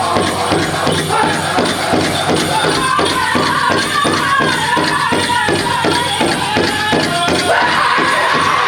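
Powwow drum group singing over a big drum struck in a steady beat of about four strokes a second; high sung lines come in about three seconds in and again near the end.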